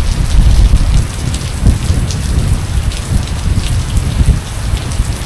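Heavy rain pouring down, with a deep, uneven rumble underneath.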